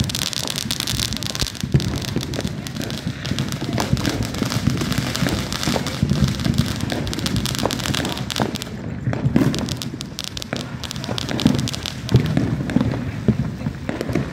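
Consumer fireworks going off: a rapid, dense crackle of small snaps and pops, thickest in the first couple of seconds and continuing more sparsely after.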